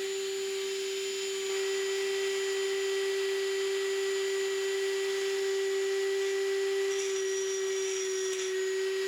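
Dremel 3000 rotary tool with an end mill bit switching on and running at a steady high whine, cutting into the metal tabs that hold a diecast toy car's wheels on, with a faint hiss of metal being milled.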